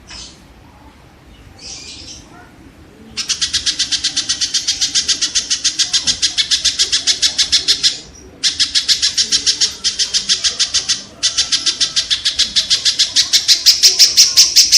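Kingfisher calling: two short faint notes, then three long runs of rapid, harsh, evenly repeated notes, a rattling series that grows louder toward the end.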